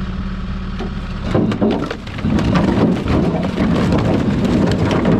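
Load of firewood logs sliding and tumbling off the tipped bed of a Kia three-way dump truck: a dense clatter of knocking wood that starts about a second in, over the truck's idling engine.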